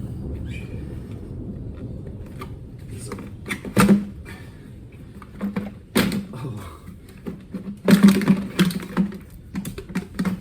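Plastic engine airbox being tugged and worked loose by hand: irregular clunks, clicks and rattles, a few louder knocks around 4 and 6 seconds in and a rapid run of them around 8 seconds in, as a small retaining clip holds it.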